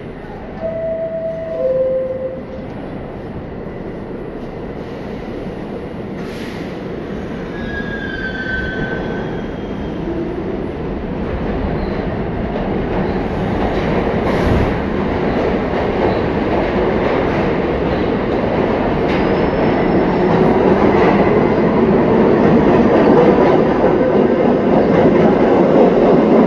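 New York City Subway R46 train leaving the station: a two-note descending door chime, then the train pulling out, its rumble growing steadily louder as it picks up speed, with brief squeals from the wheels.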